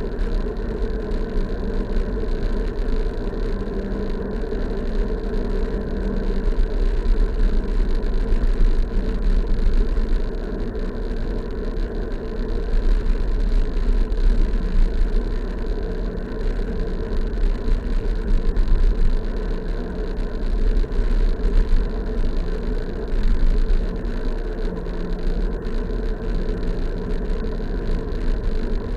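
Steady rush of wind and road noise from a bike riding along a road, with a continuous low hum that shifts in pitch a few times.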